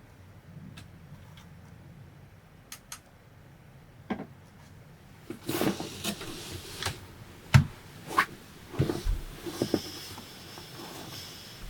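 Clicks, knocks and rustling of things being handled in a small enclosed space, with the loudest knock about seven and a half seconds in.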